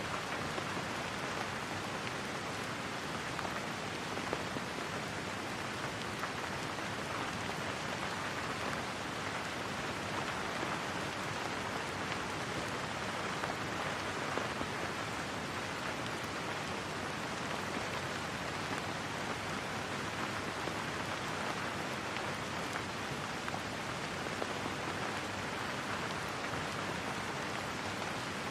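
Steady rain falling, an even patter with no breaks.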